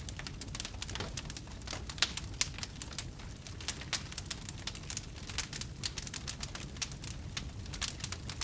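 Wood campfire crackling: a steady, irregular stream of sharp pops and snaps over a low, steady rumble, with one louder pop about two seconds in.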